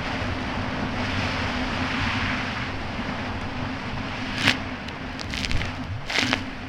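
Kawasaki Ultra 300X jet ski's supercharged four-cylinder engine running steadily under way, with wind and water rushing past. There are a few brief, sharp splashes about four and a half and six seconds in as the hull meets the chop.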